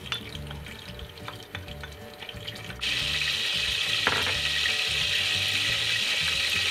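Hot cooking oil sizzling in a stainless steel pot: a steady hiss that starts abruptly about three seconds in, after a few light clinks of the bowl and spatula against the pot.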